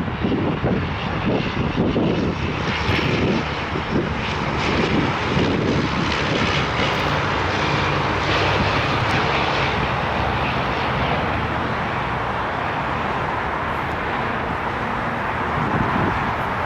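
Jet airliner on its landing approach, its engine noise building to a steady rushing sound that holds after about six seconds in. Wind buffets the microphone in the first few seconds.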